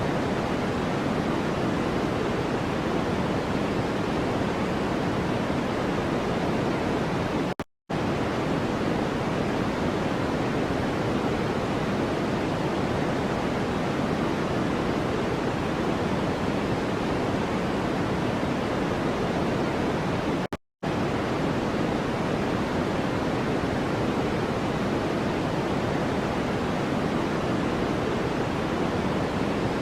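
Steady noise track: an even, unbroken rush weighted toward the low and middle range, like pink noise. It cuts out for a split second twice, about eight and twenty-one seconds in.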